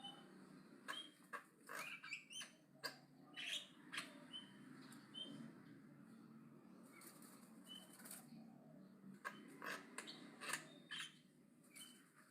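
Javan myna chattering: short high whistled notes mixed with sharp, rasping clicks, coming irregularly.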